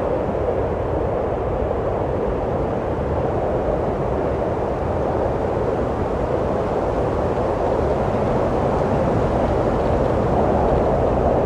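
Wind blowing steadily, a low rushing noise without gusts or breaks that swells a little toward the end.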